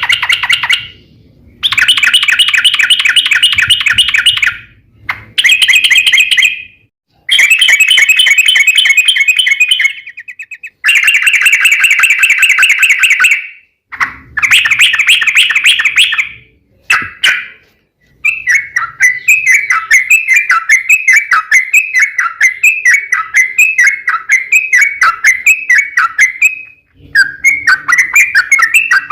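Yellow-vented bulbul (trucuk) singing: a run of fast, chattering trills, each a second or three long with short gaps between. From about eighteen seconds in it changes to a long series of evenly repeated notes, a little under two a second.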